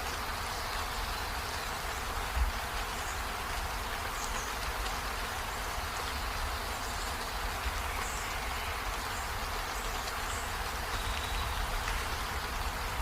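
Steady rain falling, an even hiss with a low rumble underneath and a single soft thump about two and a half seconds in.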